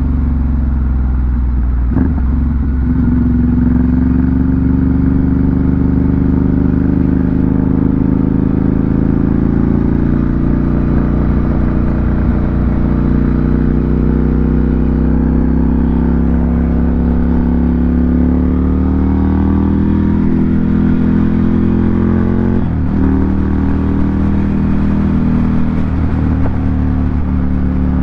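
Ducati Monster 797's air-cooled L-twin through an SC Project aftermarket exhaust, running steadily with its pitch rising and falling slowly. It breaks briefly about two seconds in and again near the end.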